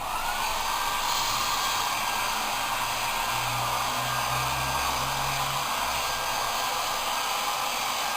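Blow dryer for drying a dog, switched on and running steadily with a loud rush of air. Its motor whine rises to a steady pitch over the first second.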